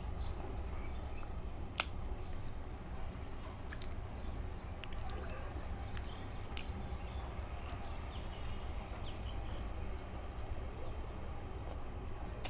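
Quiet chewing of a mouthful of chicken biryani, with a few small sharp clicks, over a steady low hum.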